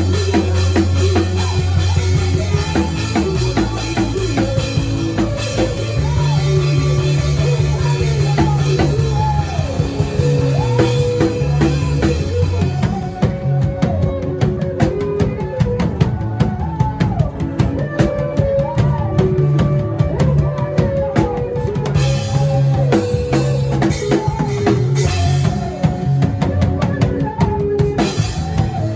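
Drum kit played along with backing music: kick drum, snare and rimshots over a sustained bass line and melody. About 13 s in the cymbal wash drops away while quick drum strokes carry on.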